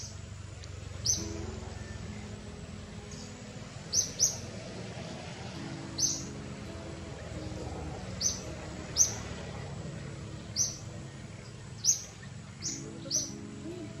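A bird repeating a short, sharp, high chirp about eleven times, irregularly every one to two seconds and sometimes in quick pairs, over a steady background hiss.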